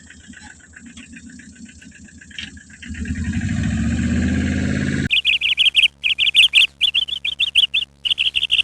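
A steady engine-like running drone that grows louder about three seconds in, then cuts off suddenly about five seconds in. Loud, rapid, high bird-like chirping in short bursts with brief gaps follows.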